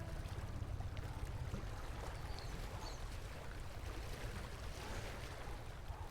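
River water running and rushing over rocks, a steady even wash.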